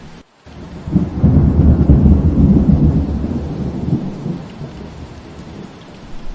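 Steady rainfall with a long, low thunder rumble that swells about a second in and dies away over the next few seconds. A brief dropout to near silence comes just before the rumble.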